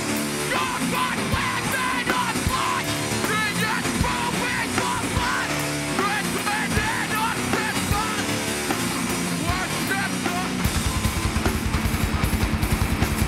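Hardcore punk band playing live: loud distorted guitars, bass and drums with shouted vocals. Near the end the drums switch to a fast, even pounding beat.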